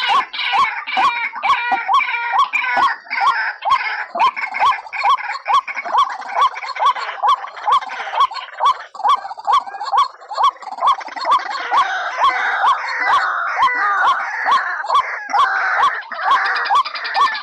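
White-breasted waterhen (ruak-ruak) calling: a loud, rapid, steady series of short repeated notes, about three a second. This is a lure call used to draw the birds in for trapping.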